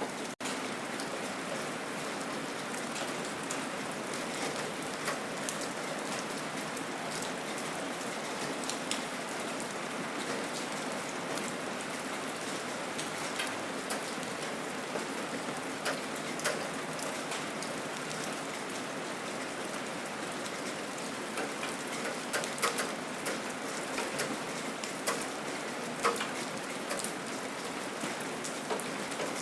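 Gentle rain falling steadily, with individual drops ticking close by through the steady patter, more of them in the second half. The sound cuts out for an instant just after the start.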